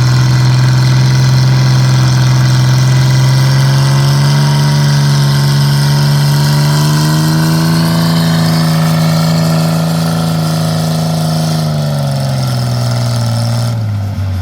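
Tractor engine pulling a weight sled down the track under heavy load, its pitch rising slowly partway through, then falling away sharply near the end as the pull stops and the throttle comes off.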